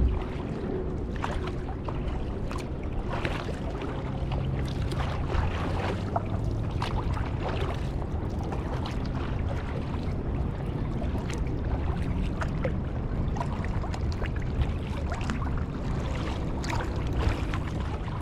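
Kayak paddling: water splashing and dripping off the paddle blades in many small irregular splashes, over a steady low rumble, with one sharp knock right at the start.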